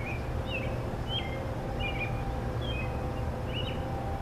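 A songbird chirping repeatedly, about six short calls spaced roughly half a second apart, over a steady low rumble and a faint steady hum.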